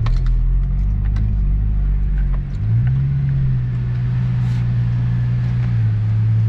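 Holden VY Commodore SS's 5.7-litre LS1 V8 running at low speed as the car rolls slowly forward, heard from inside the cabin. The engine note rises slightly about two and a half seconds in and settles a little lower near the end.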